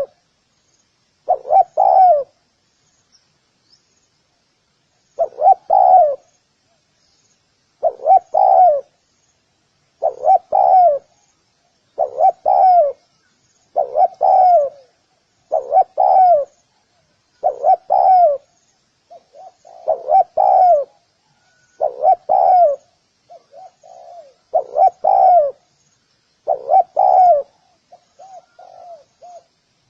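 Spotted dove cooing: a short phrase of coos repeated about every two seconds after a pause near the start, with softer coos in between in the second half. Faint high chirping runs underneath.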